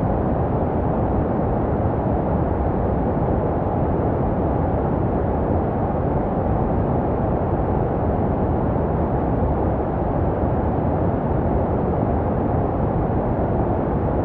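Steady white noise for baby sleep, filtered to a dull, muffled rush with most of its energy low down and little treble, made to resemble the sounds a baby hears in the womb. It runs evenly without any change.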